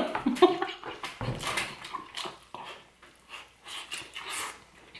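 A man chewing a large bite of breakfast burrito: irregular wet chewing and mouth sounds, close to the microphone.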